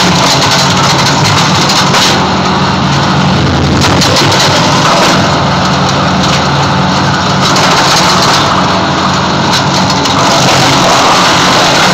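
Wood chipper running loud and steady, with an engine hum under a dense machine noise whose upper part eases and returns every few seconds.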